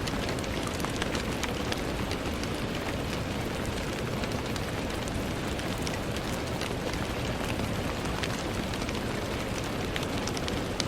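Steady rain with many small drops ticking on a window.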